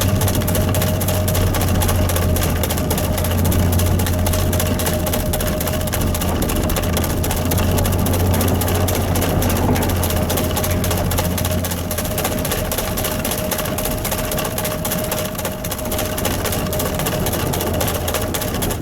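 Engine running steadily, a low drone with a steady whine over it.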